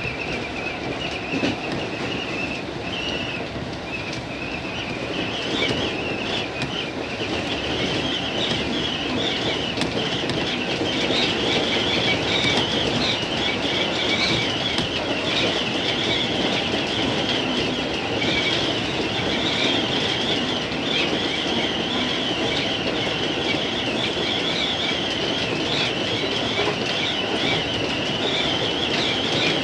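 JR East 205 series electric commuter train running on the rails, with wheels clattering over rail joints and a high, wavering wheel squeal. The running noise grows louder several seconds in as the train picks up speed.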